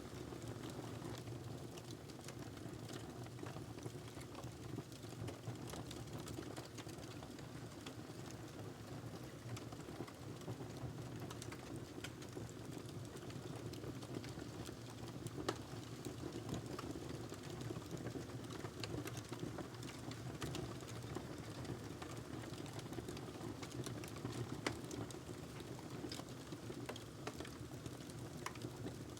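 Wood burning in a fireplace: a steady low rumble of flames with constant small crackles and a few louder pops, the sharpest about 15 and 25 seconds in.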